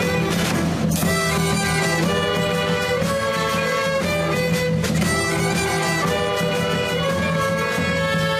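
Youth string orchestra playing a slow melody, violins carrying the tune in held notes that change about once a second over a steady low note.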